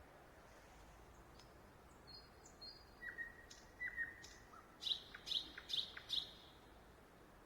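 A songbird singing, which the uploader takes for a nightingale but is not sure of. A few soft notes come first, then two whistles, then four loud, sharp notes in quick succession near the end.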